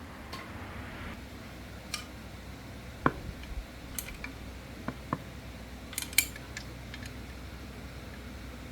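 Light metallic clinks and taps of hand tools and small metal parts being handled during repair work on a mini corn thresher, about a dozen scattered sharp clicks, the loudest about three seconds in and just after six seconds, over a steady low hum.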